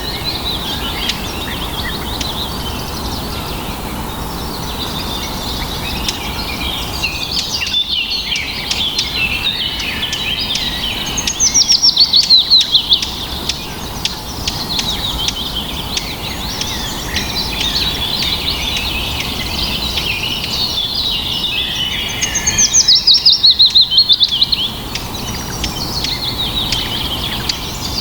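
Several songbirds singing together in a continuous chorus of chirps and warbles. Twice, about eleven seconds in and again near 23 seconds, one bird sings louder, a fast run of downward-sliding notes lasting about two seconds.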